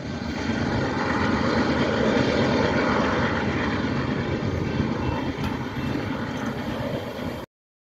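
Steady rumble of a freight train's diesel locomotives and rolling cars moving away into the distance. It cuts off suddenly near the end.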